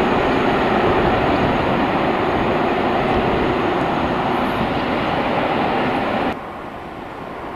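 Train passing close by: a loud, steady rumble of wheels and running gear. About six seconds in it cuts off abruptly to a quieter background rumble.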